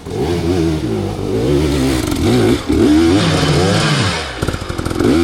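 Dirt bike engine revving up and down over and over, its pitch rising and falling about once a second, with a short rattle of clicks near the end.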